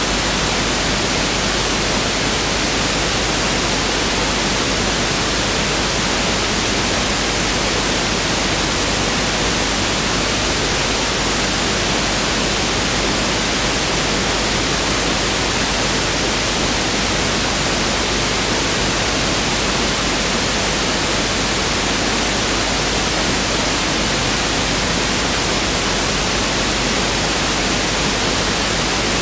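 Pink noise test signal (1/f noise): a steady, unchanging hiss spread evenly across the whole range, with no breaks.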